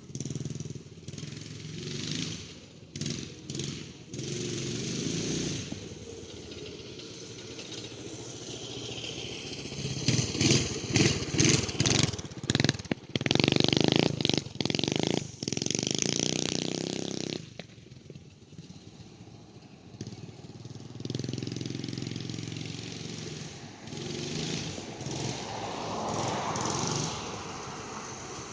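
Motovox minibike's 212cc single-cylinder engine revving up and down as the bike is ridden, loudest in a choppy run of throttle bursts about halfway through, then easing off before picking up again.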